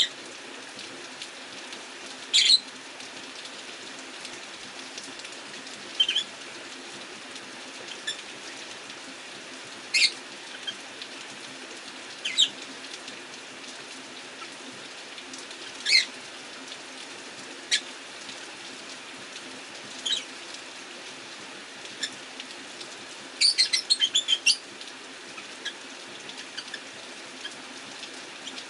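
Rosy-faced lovebirds giving short, sharp chirps every couple of seconds, with a quick run of chirps a little before the end. Under them is a steady hiss of rain.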